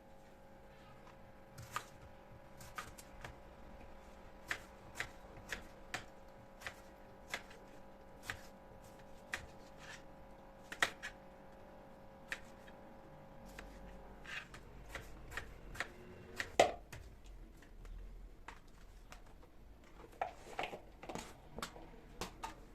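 Light knocks and clicks of hands working with things in a kitchen, irregular, about one every second, with a sharper knock about sixteen seconds in. A steady appliance hum stops about fourteen seconds in.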